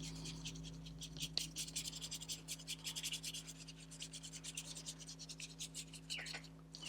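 Ink blending tool rubbed quickly back and forth over paper, a fast run of short, faint scratchy strokes applying antique linen ink.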